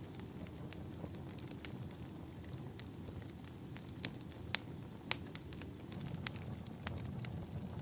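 Wood fire crackling in a fireplace: a steady low rush of flames with scattered sharp pops and snaps, the loudest two coming about halfway through.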